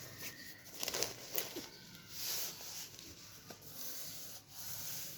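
Rubbing and rustling noise with several sharp clicks about a second in, and a louder stretch of hiss a little past the middle.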